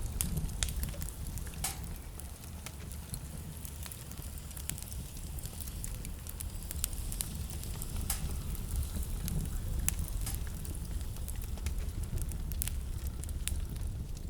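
Wood fire burning in a fireplace, crackling with many irregular sharp pops, over a steady low rumble of blizzard wind.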